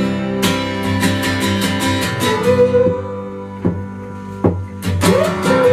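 Instrumental passage of a drumless acoustic band: acoustic guitar strumming steadily over a bass line, thinning out about three seconds in, while a long held melody note comes in a little past two seconds.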